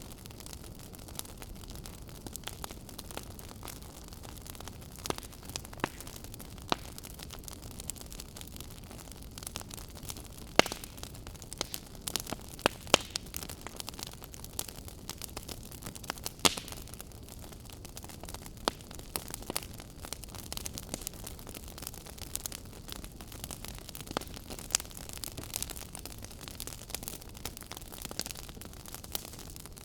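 Fire crackling: a steady low hiss with irregular sharp pops and snaps scattered throughout, a few louder ones in the middle.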